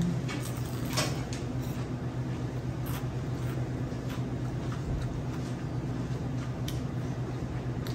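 Close-up chewing of battered fried food, with a few soft crunches scattered through, over a steady low hum.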